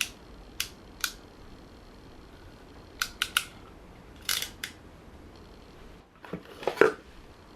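Crimping tool clicking shut as spade connectors are crimped onto a washing machine drain pump's wires: a string of sharp clicks, some in quick threes, then a few duller knocks near the end.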